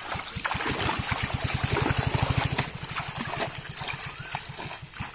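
A small engine putters past with an even, fast beat, growing louder to the middle and then fading away, over water trickling and splashing.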